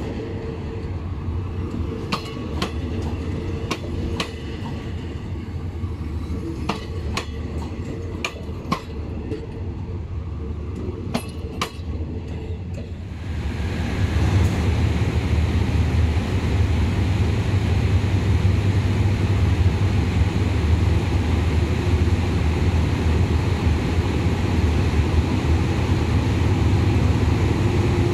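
SRT diesel train running on the track: a low rumble with irregular sharp clicks of wheels over rail joints, then about halfway through the sound steps up suddenly to a louder, steady rumble and rush.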